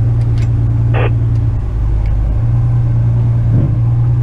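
Western Star tipper truck's diesel engine running steadily, heard from the cab. A short higher-pitched sound cuts through about a second in.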